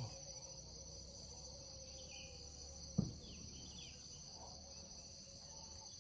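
A steady, high-pitched chorus of insects buzzing and trilling in the surrounding vegetation, with one sharp tap about halfway through.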